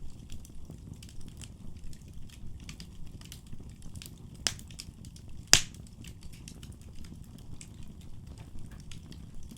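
Wood fire crackling over a low steady rumble, with many small ticks and two sharp pops, the louder one about five and a half seconds in.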